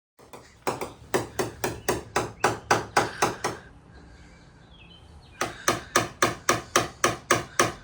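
Light, rapid hammer taps on a car body panel, about four a second, in two runs with a short pause between: paintless dent repair, tapping the metal back into shape.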